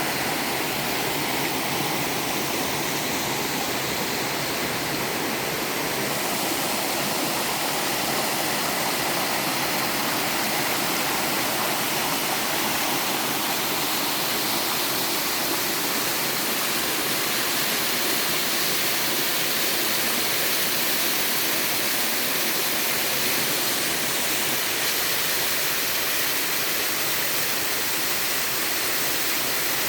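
Waterfall in a mountain valley stream: a steady, unbroken rush of falling water.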